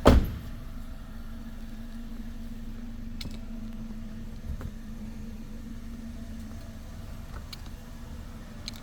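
A sharp thump, then the Suzuki S-Cross's 1.6-litre M16A four-cylinder petrol engine idling steadily with an even hum and a few light ticks.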